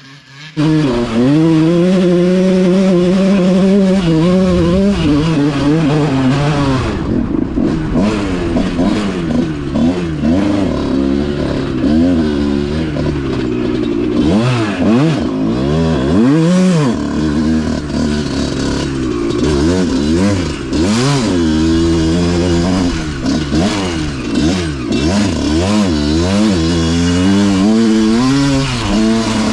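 A motocross dirt bike engine being ridden hard, its pitch climbing and dropping again and again as the throttle is worked and the rider shifts. It cuts in abruptly about half a second in, and the rises and falls come quicker in the second half.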